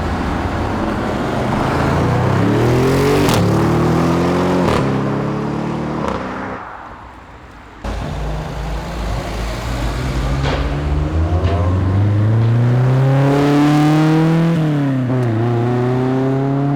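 Car engines accelerating away, the engine note climbing and briefly dropping at each upshift; after an abrupt cut about eight seconds in, a second car climbs through the gears the same way.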